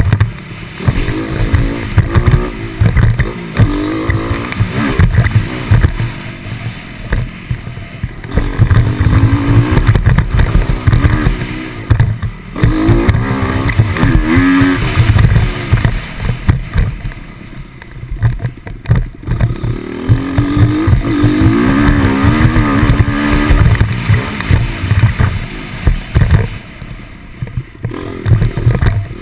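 Motocross dirt bike engine revving up and backing off again and again as it rides the track, its pitch rising and falling every few seconds over a heavy, uneven low rumble.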